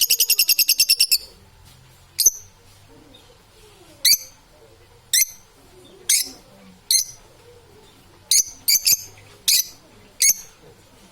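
Parrot calling: a fast string of repeated high chirps that stops about a second in, then single short chirps about once a second, a few of them in quick pairs.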